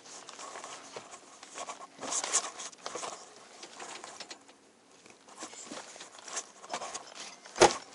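Scattered rustling and light knocks, with one sharp, loud knock near the end.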